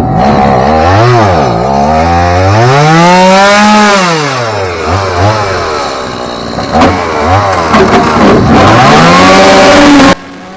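Chainsaw engine being throttled up and down, its pitch rising high and dropping back toward idle several times, with one longer high run in the first half. The sound drops off sharply just before the end.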